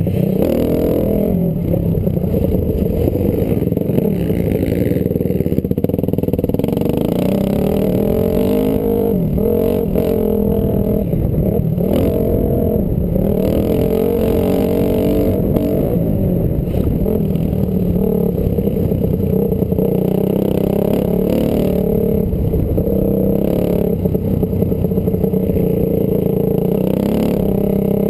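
Honda CRF250R's single-cylinder four-stroke engine running hard on a dirt track, its revs rising and falling as the rider works the throttle through the corners and jumps, with a few brief knocks from the chassis.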